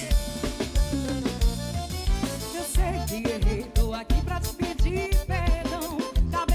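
Band music without words: a drum kit keeps a steady beat over a bass line, with a melody line wavering in pitch above it.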